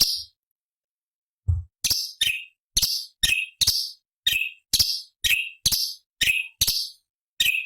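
Orange-bellied leafbird (cucak cungkok) giving a run of about a dozen short, harsh notes, roughly two a second, each ending in a falling tail. A dull low thump comes just before the run starts.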